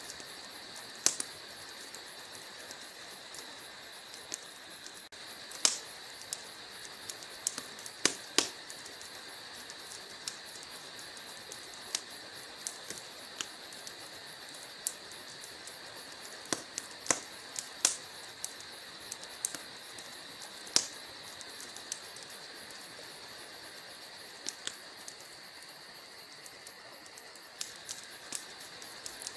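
Wood fire in a fireplace crackling: a steady soft hiss with irregular sharp pops and snaps from the burning logs, a few louder pops among many small ones.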